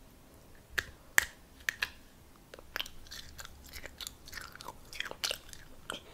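Close-miked chewing with sharp, crunchy clicks: a few single bites in the first two seconds, then quicker, denser chewing from about halfway in.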